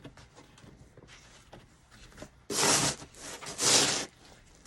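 Snow shovel scraping through snow on the driveway, twice, each stroke about half a second long.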